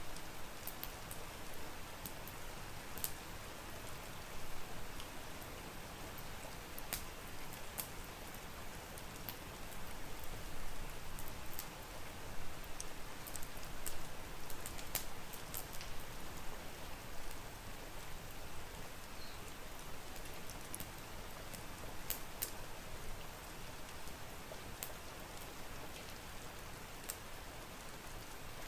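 Steady rain, with scattered sharp crackles from a wood fire.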